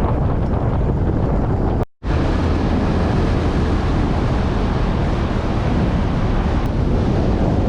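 Wind rushing over the microphone of a moving motorbike, a steady dense roar heaviest in the low end. It cuts out for an instant about two seconds in.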